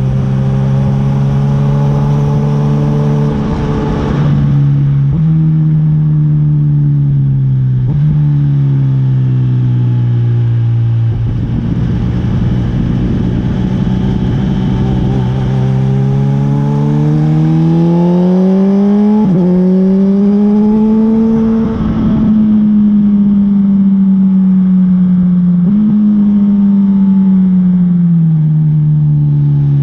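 Honda CB1000R's inline-four engine under way, revs rising and falling as the bike accelerates and eases off. There are sudden steps in pitch from quick gear changes, with a long steady climb in revs through the middle.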